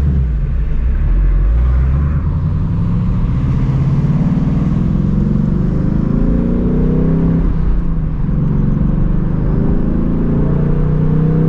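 2024 Ford Mustang GT's 5.0 V8 with the stock active exhaust accelerating hard from a roll: engine pitch climbs for several seconds, drops briefly at an upshift about eight seconds in, then climbs again in the next gear.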